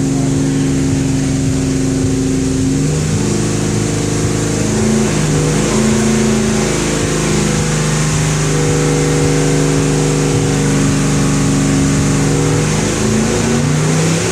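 Mopar 440 Six Pack big-block V8, with three two-barrel carburetors, running on an engine dynamometer. It holds steady speeds with several step changes in pitch and drops in speed near the end.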